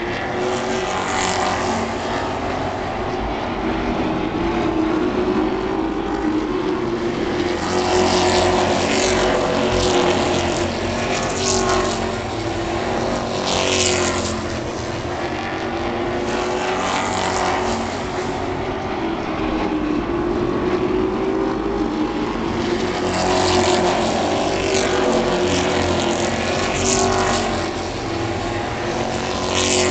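Super truck race engines running at speed on the track, the engine note rising and falling as trucks go by, with several louder pass-bys.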